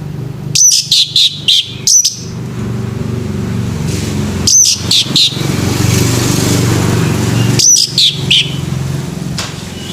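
Male orange-headed thrush singing: three short bursts of loud, high whistled notes, each a quick run of down-slurred notes, a few seconds apart. A steady low rumble runs underneath.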